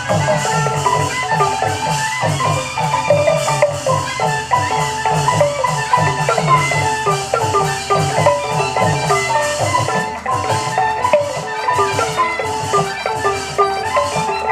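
Burmese traditional dance music: quick xylophone-like mallet notes over a steady drum rhythm, dense and continuous.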